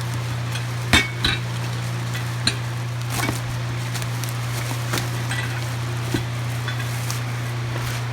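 Steady hum of a running electric fan, with scattered sharp metallic clinks and knocks, the loudest about a second in.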